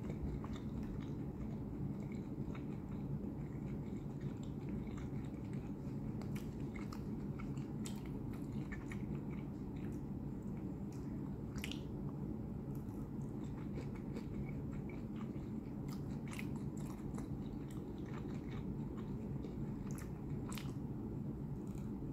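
Close-up chewing and biting of cooked shrimp dipped in cocktail sauce, with many short, sharp mouth clicks scattered throughout over a steady low hum.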